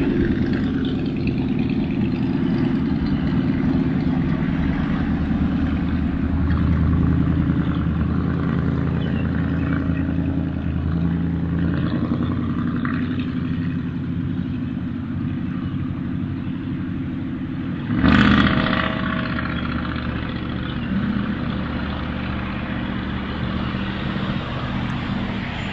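A black SUV's engine and exhaust making a loud, steady low rumble as it drives along the road, deliberately put out as noise. About eighteen seconds in the sound changes abruptly, with a short louder stretch.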